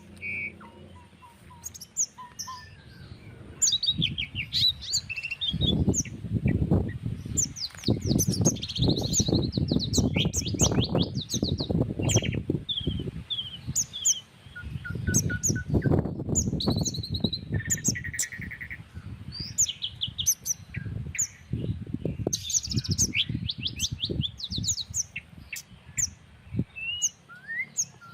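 Several small birds chirping and calling over one another, with quick rapid-fire trills and short whistled notes. Wind gusts buffet the microphone with a loud low rumble from a few seconds in, dying away near the end.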